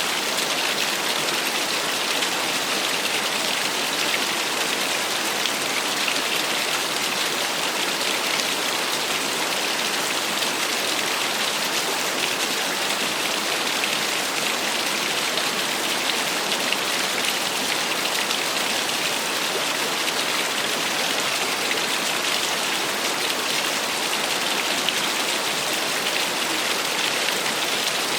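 Small waterfall splashing steadily, a constant even rush of falling water with a bright, rain-like hiss.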